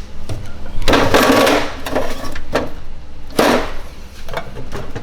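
Knocking and rustling from objects being handled and set down: one long noisy clatter about a second in, a shorter one about three and a half seconds in, and small knocks between.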